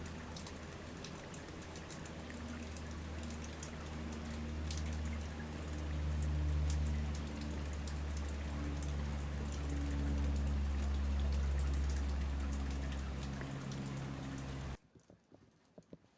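Waterfall: a steady rush of falling water with spattering drops and a low rumble. It cuts off abruptly near the end, leaving only faint scattered clicks.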